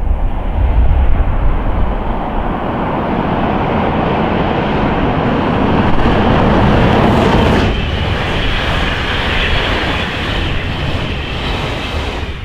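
Electric train running fast through snow: a steady rumble of wheels on rail with a rushing noise, which thins out and turns more hissing about two-thirds of the way through.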